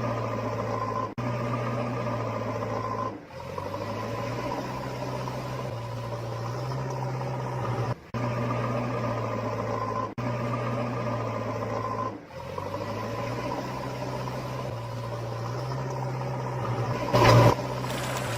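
A vehicle engine running steadily with a low hum, cut by short gaps about every two seconds as if looped. A brief loud burst comes about a second before the end.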